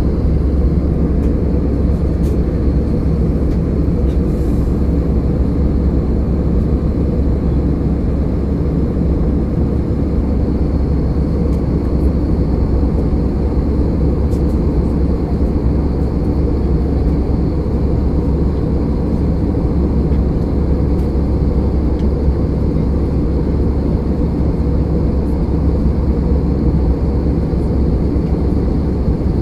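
Jet airliner's steady engine and airflow noise, a loud, deep, unchanging rumble with a faint high whine above it.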